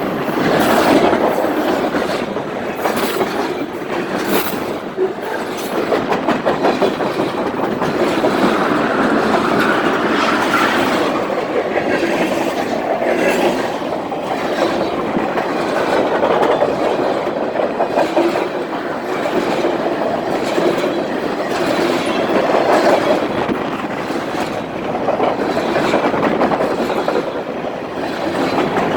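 Railroad cars of a passing train rolling by, a steady rumble with the wheels clacking over the rail joints.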